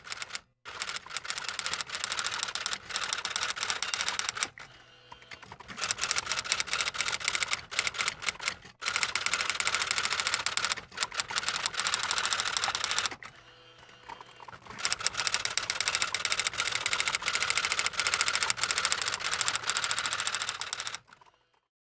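Rapid clacking like typing, in runs of a few seconds broken by short pauses, stopping shortly before the end.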